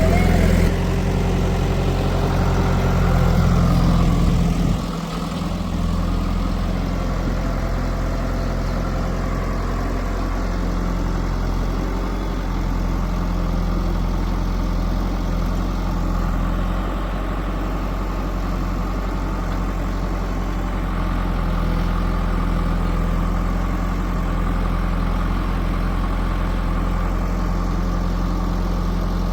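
Heavy diesel engine running steadily at a low, even pace. The sound drops a little about five seconds in and then holds steady.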